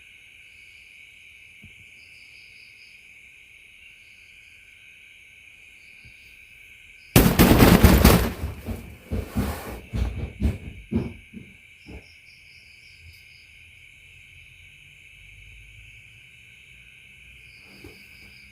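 Night insects trilling steadily, with short chirps repeating above the drone. About seven seconds in, a sudden loud rush of noise cuts in for a couple of seconds, then breaks into several sharp, irregular knocks that fade out over the next few seconds.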